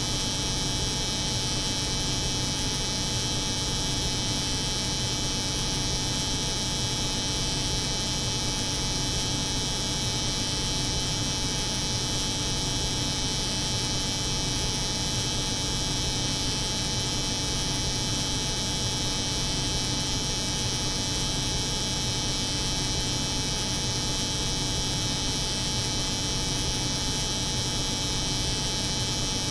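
Layered steady drone: an electric hair clipper buzzing over the hum of a cold room's refrigeration unit, unchanging in level and pitch.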